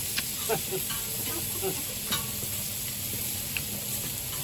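Meat and mushrooms sizzling on a hot iron griddle over a wood fire: a steady frying hiss with a few sharp clicks scattered through it.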